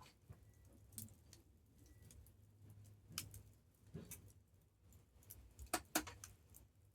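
Wood campfire crackling with scattered sharp pops, the loudest two coming close together near the end.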